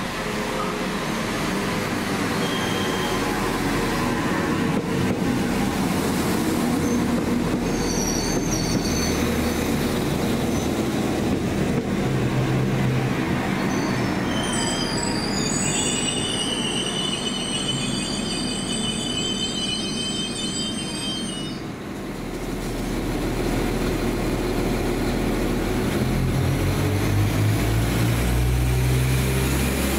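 Passenger train moving through the station, its wheels and running gear giving a steady loud rumble. A high metallic squeal of several tones sets in about halfway through and lasts several seconds, with shorter squeaks a little before it.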